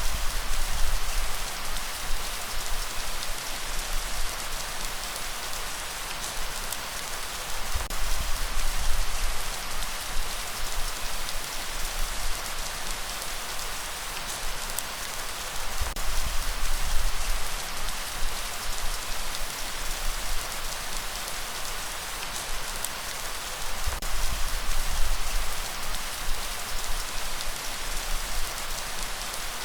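Steady light rainfall hissing, with a low rumble that swells and fades about every eight seconds.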